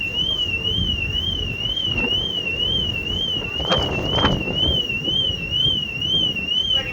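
An electronic warning alarm on the ferry sounding a continuous high warbling tone that rises and falls about two and a half times a second, over a steady low rumble. A few brief clatters come through near the middle.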